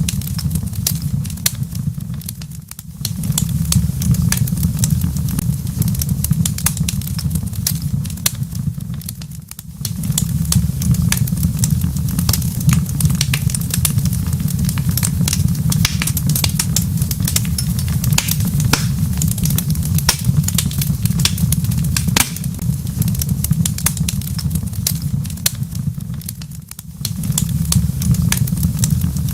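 Wood fire in a fireplace crackling, with dense irregular pops and snaps over a steady low rumble. The rumble briefly drops three times.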